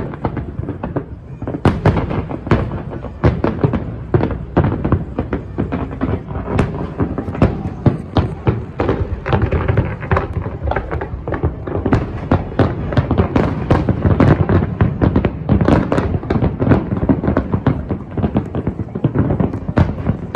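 Large fireworks display: a dense, continuous barrage of shell bursts, several bangs a second.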